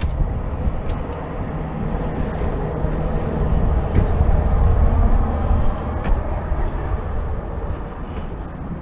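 A vehicle driving: a steady low engine and road rumble with a few clicks and rattles, growing louder to about halfway through, then easing off.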